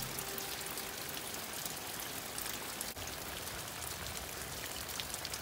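Heavy rain falling steadily on wet ground and leaves, with many sharp ticks of individual drops close by.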